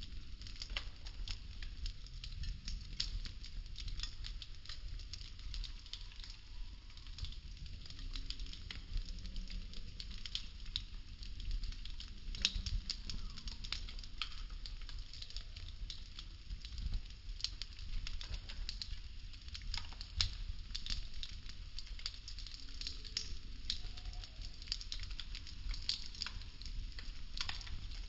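Popsicle-stick house burning: irregular small crackles and pops of the burning wooden sticks, over a steady low rumble.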